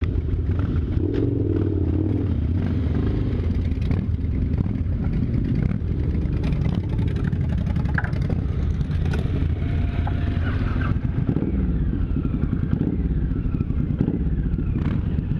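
Motorcycle engine running steadily, a dense low rumble of rapid firing pulses with occasional clicks.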